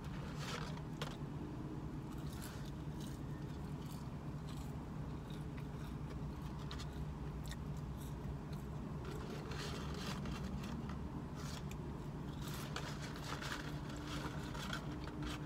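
A person chewing McDonald's french fries and handling their paperboard fries carton, with small crunches, crinkles and scrapes scattered throughout, over a steady low hum.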